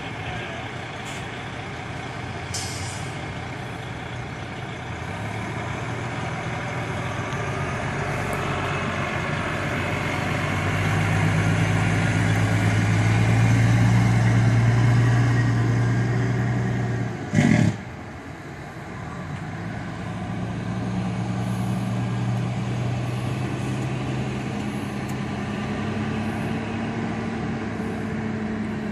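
Diesel fire truck engines running as the trucks move off. One grows loudest around the middle and is cut by a short, sharp air-brake hiss a little past halfway. Another engine then climbs slowly in pitch as it pulls away.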